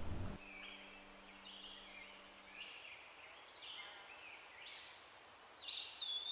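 Birds calling: a series of short chirps and whistles, some sliding up or down in pitch, with a faint low steady hum that stops about two and a half seconds in.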